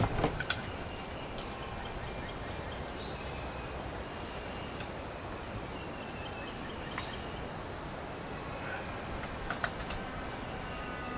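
Light clicks and taps of hand tools and small metal parts while a Poulan chainsaw is being taken apart, with a quick cluster of clicks about nine and a half seconds in, over a steady background hiss.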